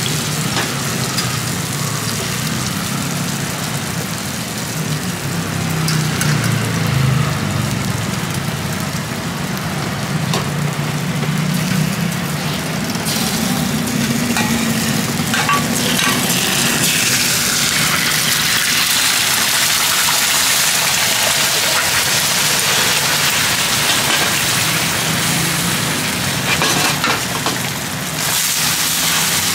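Hoy tod (mussels, batter and egg) sizzling in oil on a large flat griddle pan, with a metal spatula scraping the pan at times, over a steady low hum.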